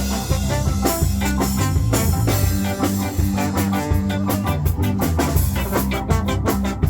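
A rock band playing live, with electric guitar, bass and drum kit in a steady groove and no vocals.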